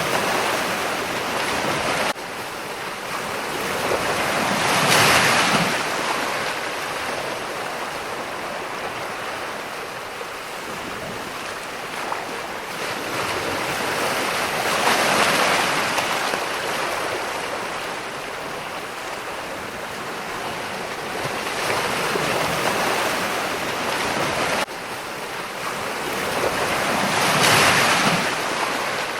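Ocean surf: waves breaking and washing in, swelling and fading every several seconds, loudest about five seconds in and again near the end. The level drops abruptly twice, about two seconds in and near the end, as if the recording was spliced.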